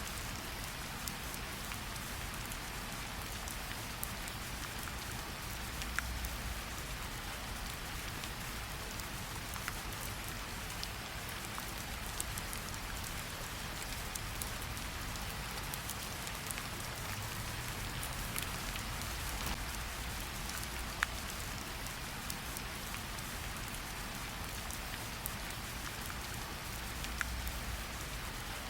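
Steady light rain pattering on tree leaves, with scattered individual drops ticking sharply over the hiss.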